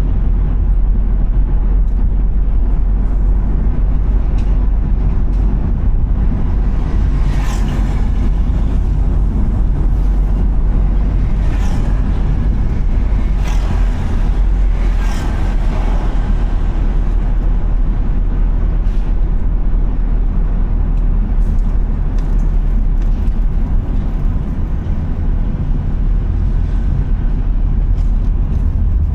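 Car driving on the road: a steady low rumble of road and engine noise, with a few brief hissing swishes partway through.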